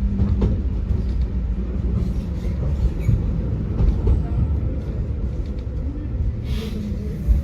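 Tram running along its track: a steady low rumble with occasional sharp knocks from the wheels, and a brief hiss near the end.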